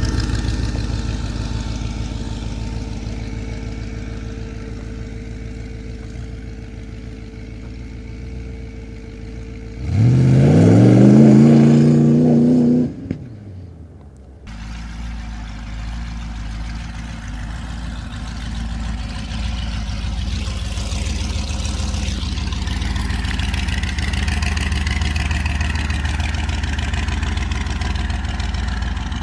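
Small-block Chevy V8 of a chopper trike running and fading away, then revving up hard with a rising pitch about ten seconds in before cutting off abruptly. After that comes a steady engine drone.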